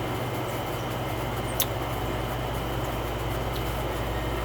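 Steady low hum and hiss of background noise, with one faint click about a second and a half in.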